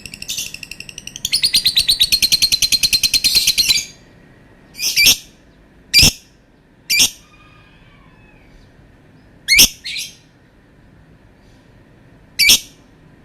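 Lovebird singing a long, rapid chattering trill that stops about four seconds in, followed by a string of single sharp chirps spaced a second or more apart.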